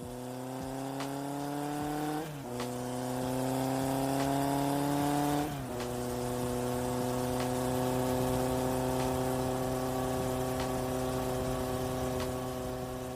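Car engine accelerating through the gears: its pitch climbs, drops at a gear change about two seconds in, climbs again, drops at a second shift about five seconds in, then holds steady at cruising speed.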